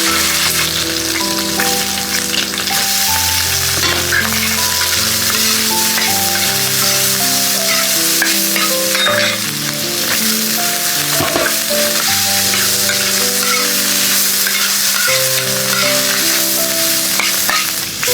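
Food frying in hot oil, a steady sizzle with the scrape and clatter of stirring, over background music with a slow melody.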